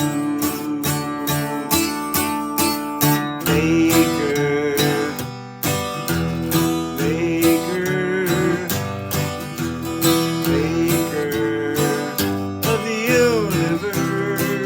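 Acoustic guitar strummed in a steady rhythm, with a few short melodic lines gliding over the chords.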